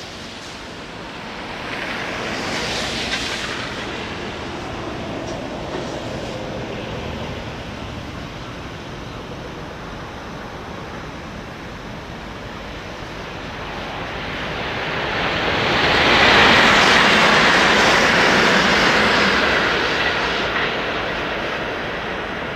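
100 series Shinkansen train running past at speed: a rushing rumble of wheels and wind that swells twice, loudest about two thirds of the way through, then slowly fades.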